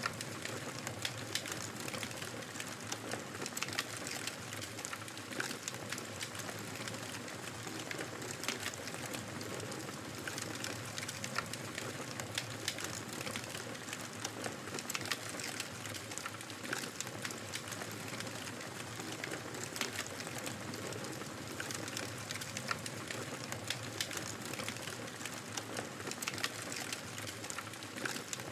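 Fireplace fire crackling: frequent small sharp pops and snaps, several a second, over a steady rush of flame noise.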